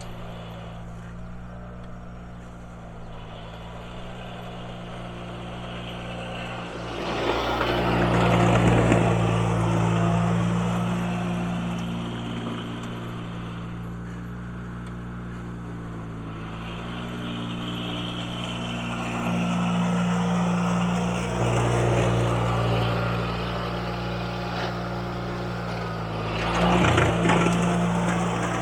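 1980 IH Cub Cadet garden tractor engine running steadily, its pitch shifting a few times. Three times, at about a quarter, two thirds and near the end, it swells louder for a few seconds.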